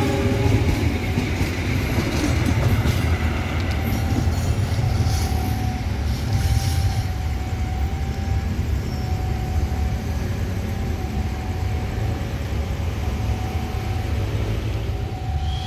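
Passenger train coaches rolling on the rails, a steady low rumble of wheels on track.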